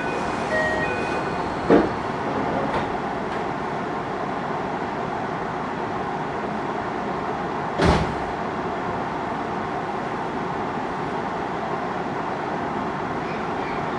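Steady interior noise inside a passenger car of a JR Hokkaido 733 series electric train, with a sharp knock about eight seconds in and a smaller one near two seconds in.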